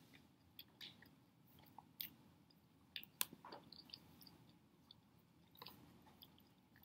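Faint chewing of a mouthful of burger with the mouth closed: a handful of soft, irregular clicks and squelches, the clearest about three seconds in.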